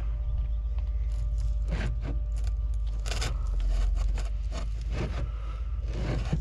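Irregular scraping and rustling of hand tools and pliers working a new seal into place, in short strokes, over a steady low hum.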